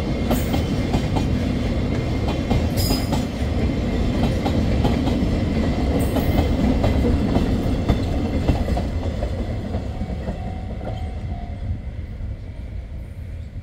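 Freight train wagons rolling past on the rails, a steady low rumble with repeated clicks of the wheels over the rail joints and a few short high screeches. It fades away over the last few seconds as the end of the train moves off.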